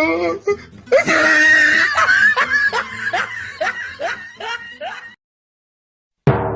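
Laughter sound effect: a voice laughing in a run of short bursts, about two or three a second, for around four seconds, then cut off dead. Near the end a sudden hit starts and rings on.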